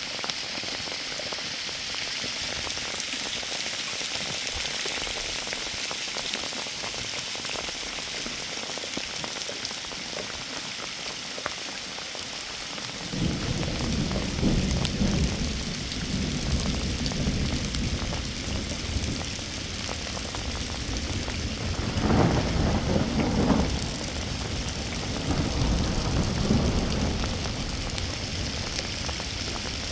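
Heavy rain falling steadily, a dense hiss. About halfway through a low rumbling comes in under it and swells several times.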